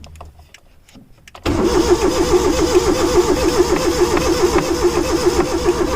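Electric starter motor cranking the petrol engine of a long-idle Hyundai EON, cutting in suddenly about a second and a half in with a steady, even rise and fall at each compression; the engine turns over without catching.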